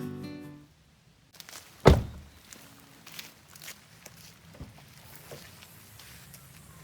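Background music fades out, then one heavy thud about two seconds in, followed by a few light knocks and clicks, like gear being put down and handled.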